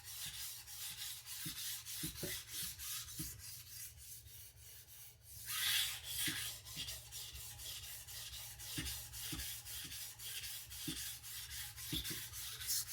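Steel chef knife blade stroked back and forth on a sharpening stone with very light pressure, a soft, repeated scraping, raising a burr along the edge.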